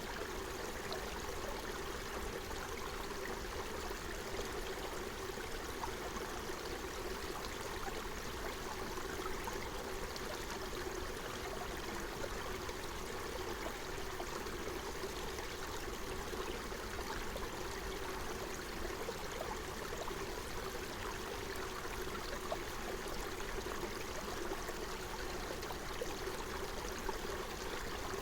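A forest stream flowing over stones, a steady babble of running water with small trickling splashes.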